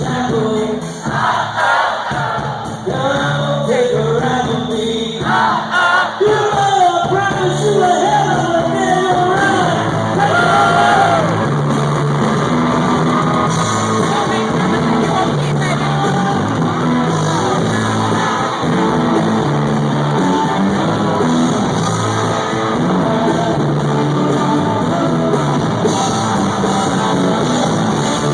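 Live country-rock band playing in a large hall, loud and steady, recorded on a phone's microphone. A male voice sings over the first ten seconds or so, then the band plays on.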